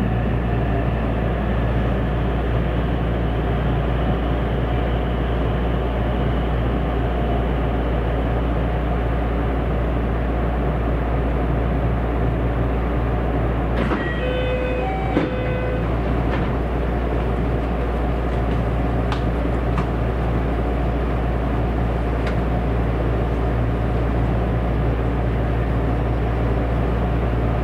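Steady running noise inside the cabin of a JR West 227 series electric train: the even rumble of wheels on rail and the car's motors. About halfway through comes a brief chime of a few short tones and a small knock.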